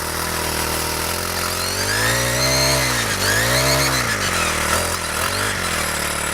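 Four-stroke string trimmer (weed eater) engine running, revved up twice in quick succession about two and three and a half seconds in, then settling back to a steady idle.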